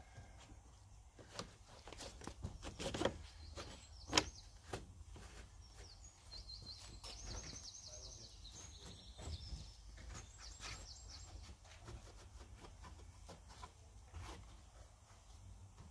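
Quiet outdoor ambience with a small bird twittering in quick high trills through the middle stretch, over scattered light clicks and knocks; the sharpest knock comes about four seconds in.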